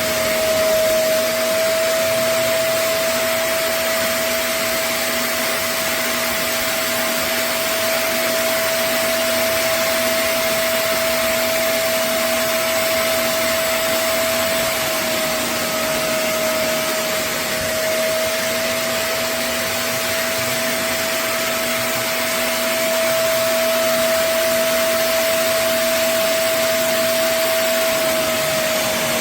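Vacmaster SCA0801 carpet and upholstery spot cleaner running steadily: an even rush of suction with a constant motor whine.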